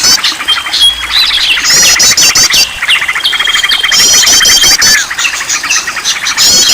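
A chorus of several songbirds chirping and trilling together, played as a bird-lure recording to set caged birds singing. A quick run of rising notes comes back about every two and a half seconds, and between them a long, even trill is held on one pitch.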